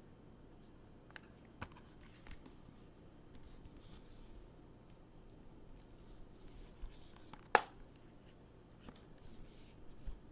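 Hands handling the packaging of a pin badge gift set: soft rustling of the packaging several times, a few light clicks, and one sharp click about two-thirds of the way through.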